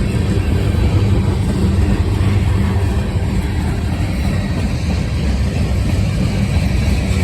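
Freight train cars rolling past on the track, a steady loud rumble of wheels on rail.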